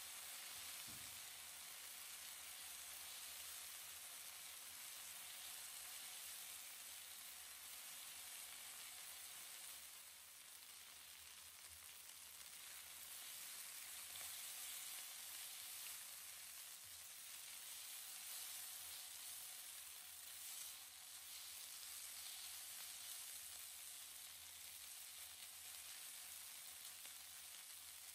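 Food frying in a pan, a faint, steady sizzle.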